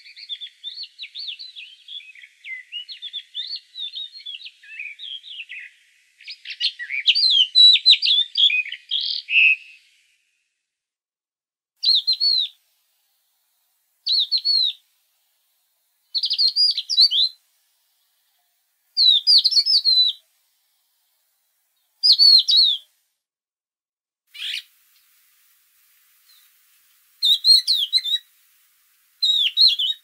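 Songbird singing: about ten seconds of continuous twittering, then short, separate phrases repeated every two to three seconds.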